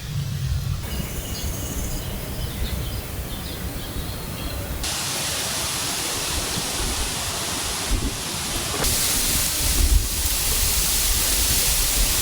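Wind buffeting the microphone over a steady hiss of outdoor noise. The hiss changes abruptly three times, growing brighter and louder about five and nine seconds in.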